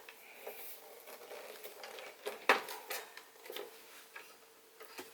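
Handling noise from a vintage Galaxy oscillating table fan being tipped over: scattered clicks and light knocks, with one sharper knock about two and a half seconds in.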